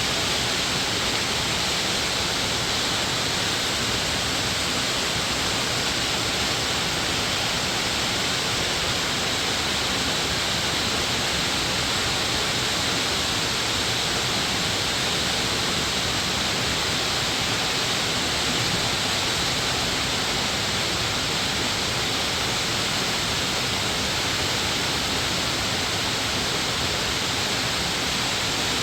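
Rushing water of a mountain valley stream, a steady even rush that holds the same level throughout.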